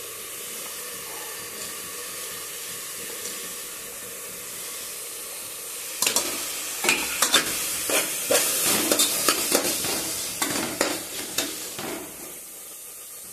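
Tomato pieces sizzling in hot oil and masala in a pressure cooker. About six seconds in, a metal spoon starts stirring, giving several seconds of quick scrapes and clinks against the pot before it settles back to a steady sizzle.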